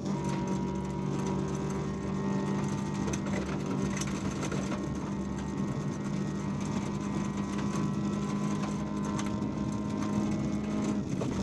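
VW Polo 1.4 16V rally car's four-cylinder engine, heard from inside the cabin, held at steady revs on a gravel stage, with the pitch shifting slightly near the end. A few sharp ticks of gravel striking the car.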